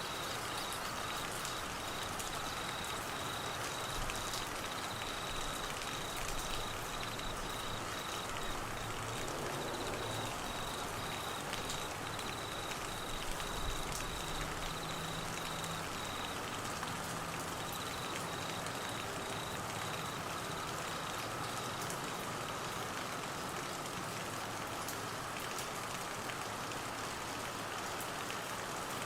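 Steady rain falling, an even hiss of drops, with a high, rapidly pulsing trill through much of the first two-thirds and a brief low rumble about fourteen seconds in.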